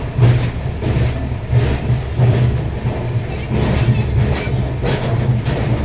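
Passenger train pulling out of the station, heard from its own coach: a steady low rumble of wheels on the track with irregular clacks as the wheels cross rail joints and points.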